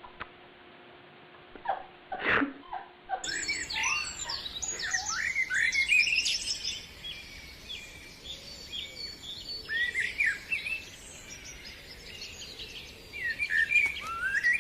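A few short knocks, then from about three seconds in many birds chirping and calling at once, with short rising and falling notes overlapping busily.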